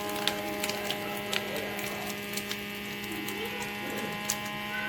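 A steady hum made of several held tones, with scattered light clicks throughout.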